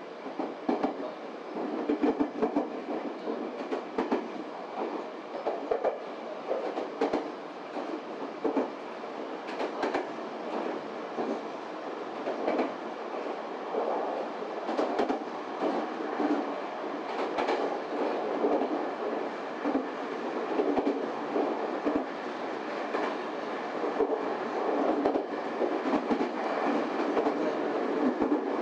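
Nagoya Railway Kowa Line electric train running, heard from inside the car: a steady rumble of wheels on rail, broken by frequent, irregular clicks and knocks from the track.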